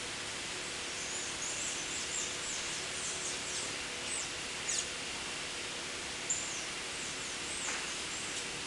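Blue-grey tanagers giving thin, high chirps: short down-slurred notes in quick runs, heaviest in the first few seconds and again about two-thirds of the way through, over a steady outdoor hiss.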